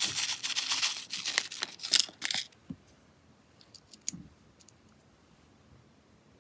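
Slime being handled, giving a dense crackle of small pops and clicks that stops about two and a half seconds in, followed by a few faint scattered clicks.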